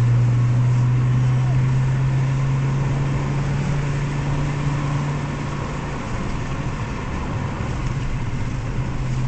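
Audi 100 Quattro Turbo's 2.2-litre turbocharged five-cylinder (MC) engine droning steadily from inside the cabin while driving, with road noise. The drone eases off about six seconds in, as when lifting off the throttle.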